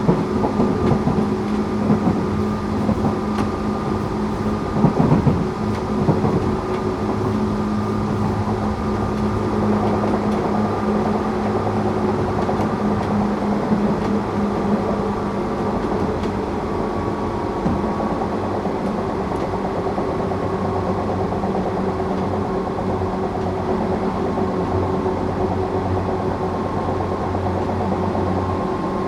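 Tokyu 8500 series electric train running at a steady speed, heard from on board: a steady hum from its Toyo-made traction motors and gears over the rumble of wheels on rail, with a few knocks from rail joints about five seconds in.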